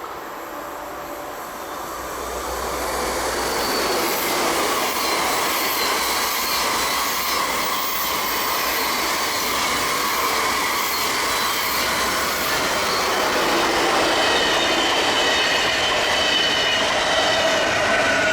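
A train rolling past close by, the rolling noise building over the first couple of seconds and then holding, with wheel squeal: faint high whining tones that drift in pitch, growing stronger in the second half.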